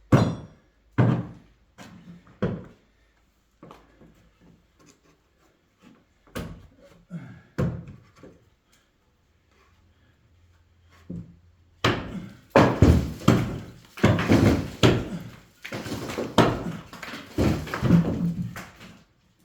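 Heavy knocks and thuds of a brick wall being demolished by hand. There are single blows spaced a second or more apart at first, then after a pause a dense run of blows and clattering bricks and rubble for the last several seconds.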